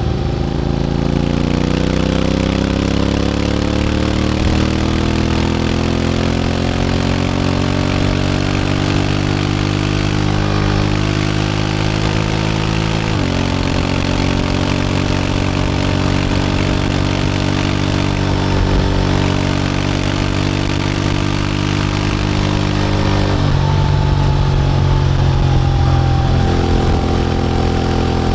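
Honda X-ADV 750's parallel-twin engine running through an SC-Project titanium slip-on exhaust on the move. It pulls up steadily in pitch for the first dozen seconds, changes tone abruptly about halfway as a gear shifts, then holds a steady cruise. Wind and road hiss run underneath.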